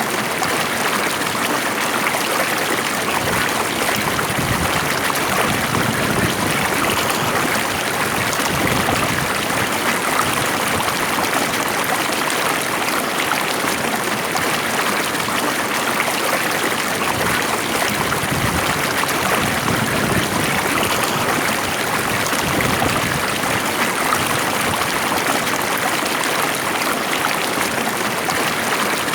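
Stream water flowing calmly, a steady, even rush with a light trickle.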